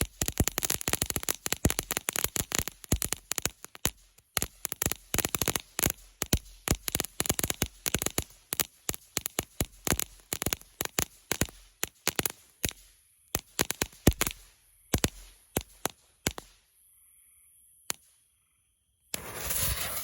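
Small ground fountain firework crackling: a rapid run of sharp pops, several a second, loud like firecrackers, that thins to scattered pops and dies out about 16 seconds in. A steady rush of noise starts suddenly near the end.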